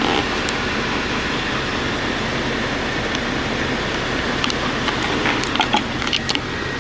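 Steady low mechanical hum of a parked semi truck, heard inside the cab, with a few light clicks and knocks in the second half as things are handled.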